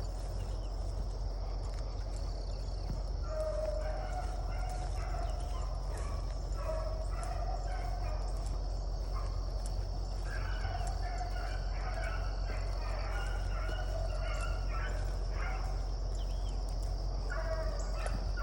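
Beagles baying in bursts while running a rabbit track, the hound voices coming in several spells of repeated calls: the sound of the pack on the rabbit's scent.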